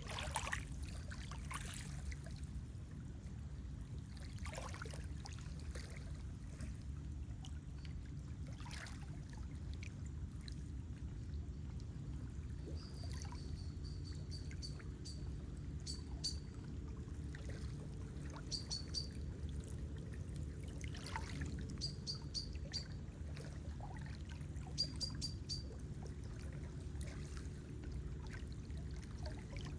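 Lake water lapping in a steady low wash, with a few splashes and drips. From about halfway in, a small songbird gives short high chirps in quick little runs, repeated every second or two.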